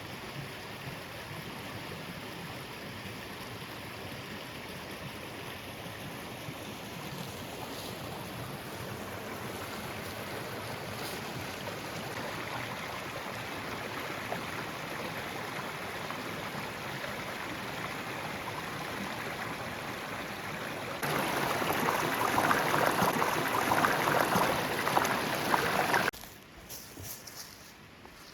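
Small woodland creek running with a steady rush of water. Near the end it is much louder for about five seconds, then drops off abruptly to a quieter background.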